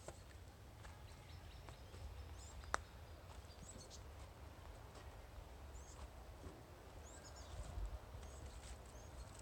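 Campfire crackling faintly with scattered pops, one sharper pop about three seconds in, over a low rumble.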